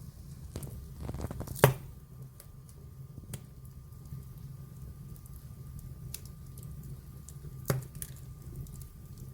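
Wood fire burning in a fireplace, with scattered crackles and two loud sharp pops, one about a second and a half in and one near the end, over a low steady rumble.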